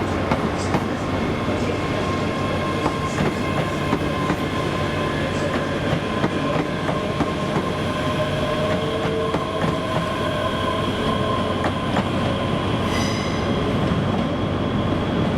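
ScotRail Class 385 electric multiple unit moving slowly through the station, with a steady electric whine and scattered clicks of wheels over rail joints. A brief high squeal comes near the end.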